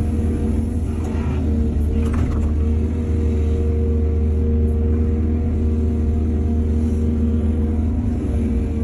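Heavy diesel engine of an excavator running steadily with a deep, even drone, with brief clattering noises about one and two seconds in.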